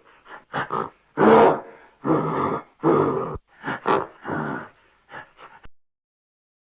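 An animal grunting in a run of short, rough calls of varying length, which stop about five and a half seconds in.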